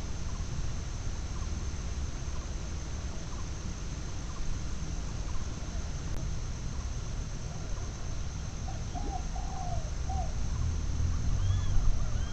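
Spotted doves cooing, the coos coming in short runs from about eight seconds in and again near the end, over a steady low rumble. Faint higher chirps join near the end.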